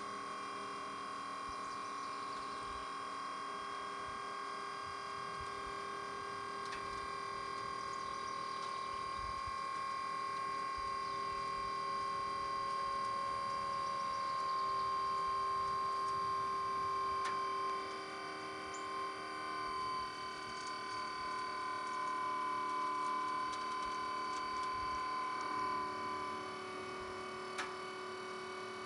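Electric hydraulic pump motor of a converted JLG 2658 scissor lift running steadily with a constant whine as the platform is raised. The pitch sags slightly partway through.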